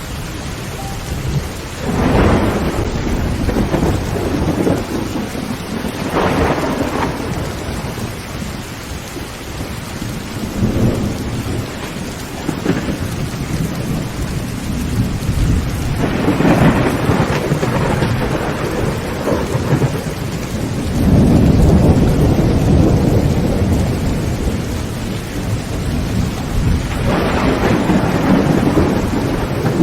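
Heavy rain falling steadily on a tin tent roof, with several rolls of thunder swelling and fading over it. The longest and deepest rumble comes a little past two-thirds of the way through.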